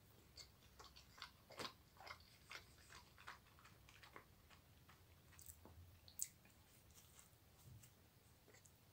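Faint chewing of a soft white-bread sandwich spread with mascarpone: irregular wet mouth clicks, two or three a second at first and sparser later, with one sharper click about six seconds in.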